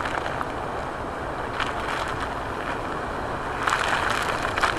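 Typhoon wind blowing hard across a phone microphone, a steady rushing rumble that gusts a little louder near the end.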